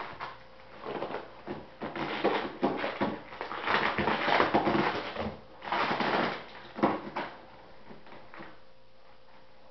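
Packing material and a shipping box being handled: spells of rustling and crinkling with small clicks and knocks, dying away to quiet about three-quarters of the way through.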